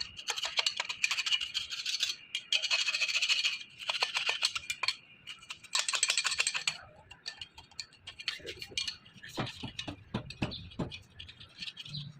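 Rapid rasping strokes of a hand tool on metal in four runs of a second or so, then scattered light clicks and taps near the end.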